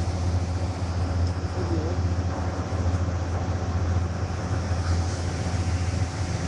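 A steady low hum with a constant noise bed, like a running engine or motor, and faint background voices.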